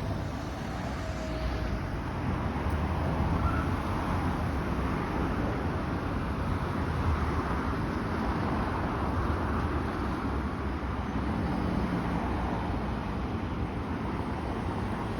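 Steady road vehicle noise: a low rumble with an even hiss above it, with no sudden events.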